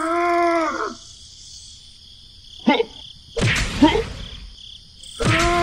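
Insects chirring steadily. Two loud, drawn-out calls about a second long, one at the start and one near the end, each rising and then falling in pitch.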